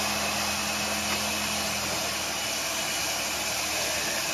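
Nissan Safari 4x4's engine running at low revs as it crawls over a rock, under a steady hiss; its low hum dims about halfway through.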